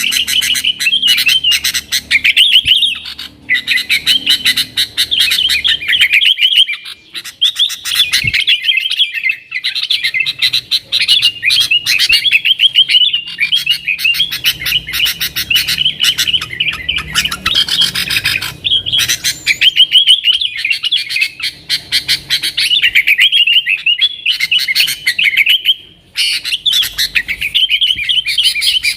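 Yellow-vented bulbul (trucukan) singing nonstop, a rapid stream of chattering, warbling chirps with only a few short breaks.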